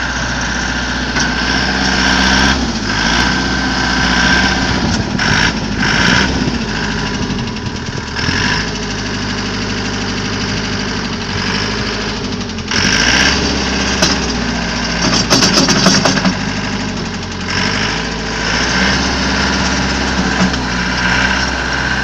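Foton Lovol 504 tractor's diesel engine running, its speed rising and falling a few times, with several short bursts of clatter over it.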